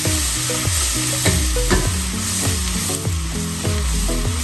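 Chopped onion and garlic sizzling in butter in a stainless steel pot while a wooden spoon stirs them, a steady frying hiss. Background music with a steady bass beat plays underneath.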